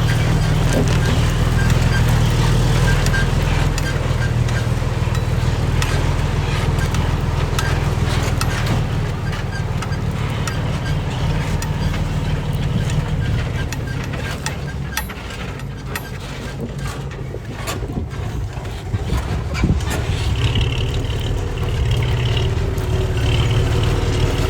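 Diesel engine of heavy earthmoving machinery running under load, with frequent clanks and rattles of steel and stone. It eases off around two-thirds of the way through and builds up again near the end.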